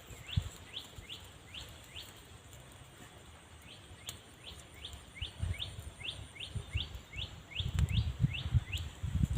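A bird calling in a quick repeated series of short falling chirps, about two to three a second, with a brief lull in the middle. Dull low thumps come in a cluster near the end.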